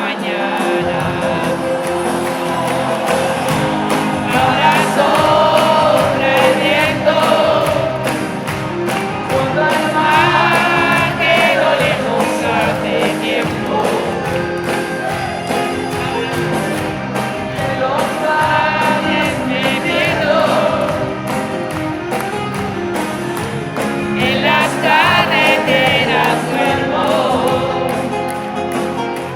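Live band music with many voices singing together, the crowd joining in with the singer.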